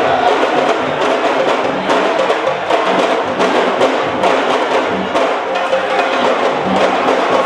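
Percussion music: fast drumming with sharp, wood-block-like clicks over a steady low beat.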